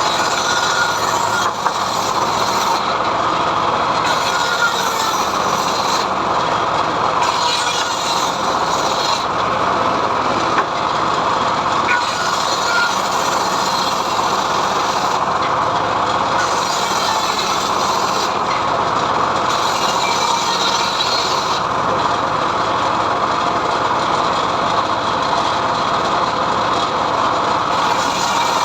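Homemade sawmill running steadily while its blade rips a mahogany log, with a higher hiss that swells and fades every few seconds.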